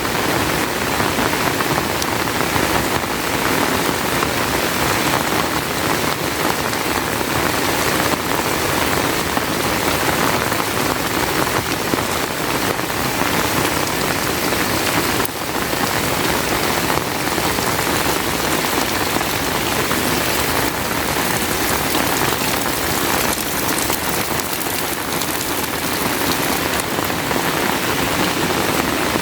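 Heavy rain falling steadily: a dense, even hiss of countless drops hitting surfaces.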